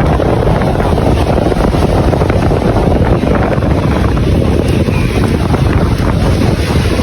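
Strong wind buffeting the microphone, a loud steady low rumble that covers everything else.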